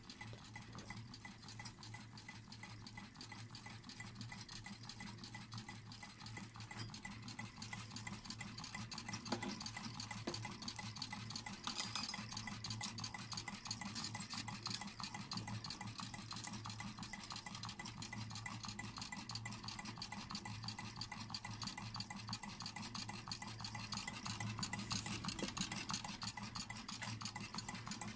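Homemade water-cooled Stirling engine made from a WD-40 spray can and a Red Bull can, running with a rapid, even clatter, slowly getting louder, with one sharper click about twelve seconds in.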